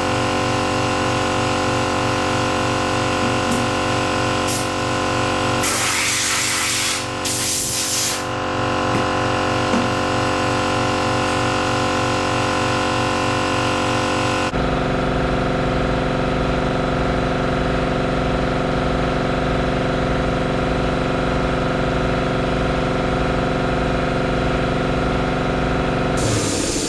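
Air-powered chipping tool running steadily as it hammers hardened concrete out of a skid steer concrete bucket, giving a loud, even buzzing chatter. Two short bursts of hiss come a few seconds in, and the tone of the tool changes about halfway through.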